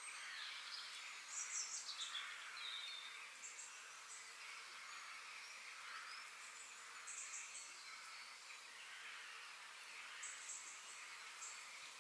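Forest birds chirping and calling over a faint steady background hiss, with short bursts of very high-pitched chirps recurring throughout and a louder cluster of calls about a second and a half in.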